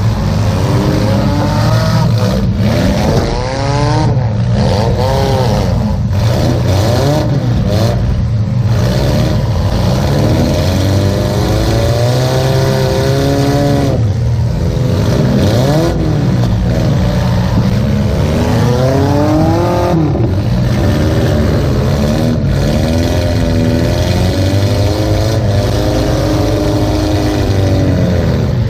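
Demolition derby car's engine heard from inside the stripped cab, revving up and falling back again and again as the car accelerates and lets off, over a steady low drone.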